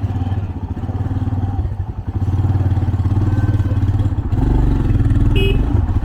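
Motorcycle engine running close by, getting louder about two seconds in and again about four seconds in as it is revved or pulled away. A brief high beep sounds near the end.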